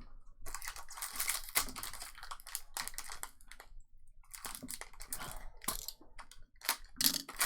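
Baseball trading cards and their pack wrappers being handled: dry rustling and crinkling with light clicks, pausing briefly about halfway.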